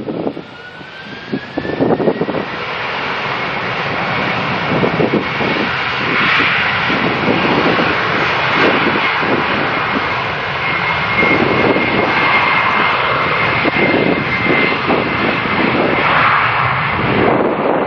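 Airliner's jet engines: a loud rushing noise that swells over the first few seconds and then holds steady as the aircraft passes close, with a rising whine near the start and a steady high whine midway. Wind buffets the microphone throughout.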